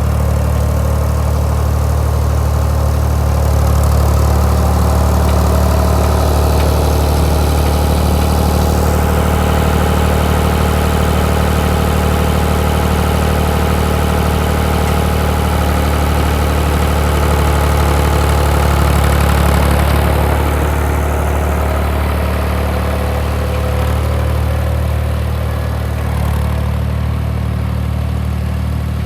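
Ford 3930 tractor's three-cylinder diesel engine running steadily at a low, even speed.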